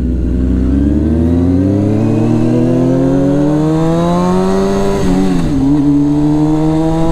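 Honda CBR600F4i inline-four motorcycle engine accelerating, its pitch rising steadily through the gear. About five seconds in it drops briefly as it shifts up, then climbs again in the next gear.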